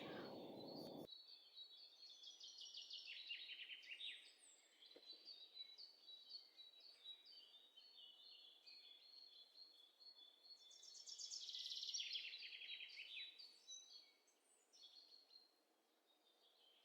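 Faint birdsong: small birds chirping, with two bursts of quick, descending trills.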